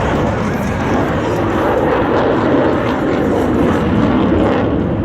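F-22 Raptor fighter jet flying past with its F119 turbofan engines running at high power: a loud, steady jet noise.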